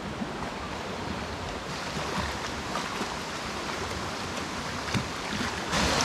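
Mountain stream rushing over rocks: a steady wash of running water with a few faint knocks. It turns louder and brighter just before the end.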